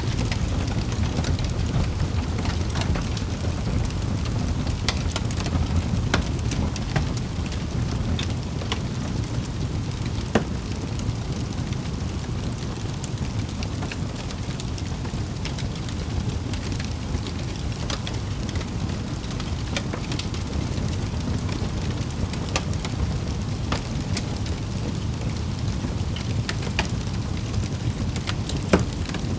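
Wood fire crackling in a fireplace: a steady low rumble of burning with scattered sharp pops and snaps, two louder pops about ten seconds in and near the end.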